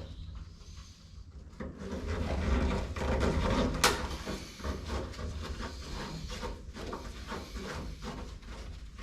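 Hands and tools working metal hardware inside a car door: scraping and rattling, with one sharp click about four seconds in and small clinks after it.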